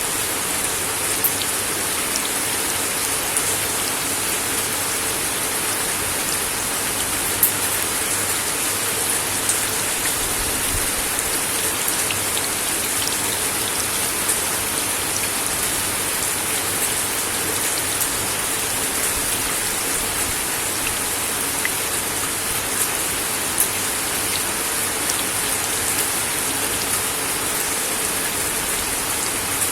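Steady rain falling on a wooden deck, an even hiss with scattered sharper drips.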